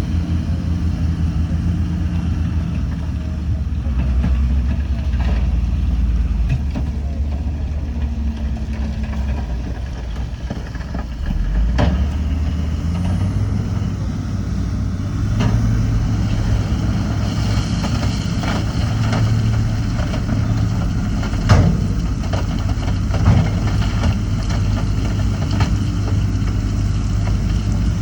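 Heavy diesel engine of earthmoving machinery running steadily; its pitch dips briefly about twelve seconds in, then settles higher. A few short sharp knocks come through in the second half, the loudest about three quarters of the way through.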